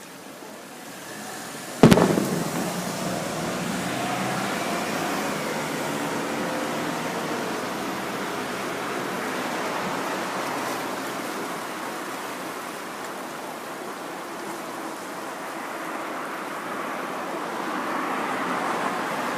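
Aerial fireworks: one shell bursts with a sharp, loud bang about two seconds in, followed by a long steady hiss that fades a little and swells again near the end.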